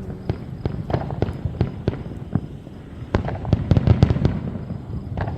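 Firecrackers going off in an irregular string of sharp cracks, thickening into a rapid crackle about three seconds in.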